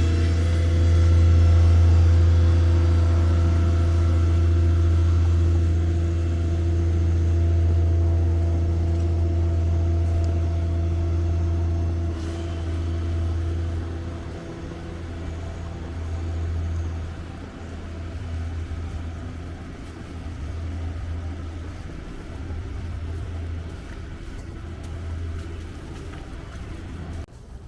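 A motor vehicle's engine running close by as a steady low hum with a ringing tone over it. After about twelve seconds it fades into a softer, uneven rumble.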